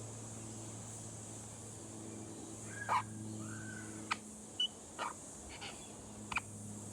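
Short, sharp bird calls, about six of them spaced through the latter half, over a steady low hum.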